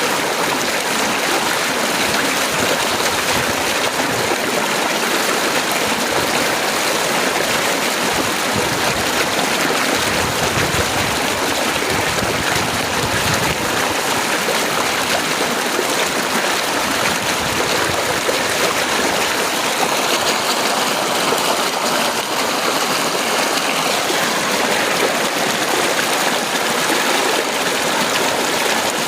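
Heavy rain pouring steadily, a dense even hiss with no thunder heard.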